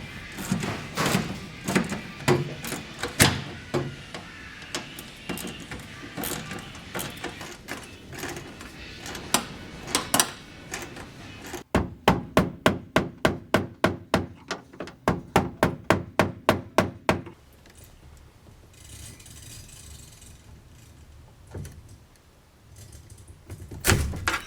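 Hand-tool work: irregular clatter and knocks, then about halfway through a fast, even run of sharp knocks, about five a second, lasting some five seconds, before it goes quieter.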